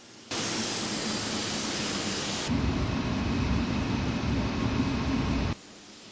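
Boeing 767-200 jet engines heard on landing, cutting in suddenly: first a loud hiss with a faint high whine, then from about two seconds in a heavy low rumble, which stops abruptly near the end.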